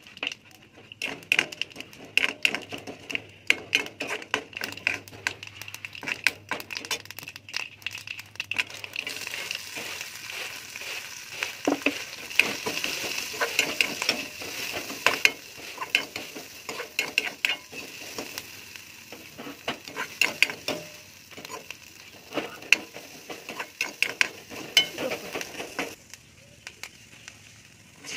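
Mustard seeds popping in hot oil in a metal kadai, with a steel ladle clinking against the pan. About nine seconds in, a steady sizzle sets in as sliced onions fry and the ladle keeps stirring and scraping.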